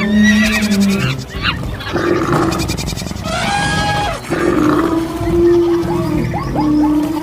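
Mixed animal call sound effects overlapping one after another, with pitched calls and cries coming and going every second or so over a steady low rumble.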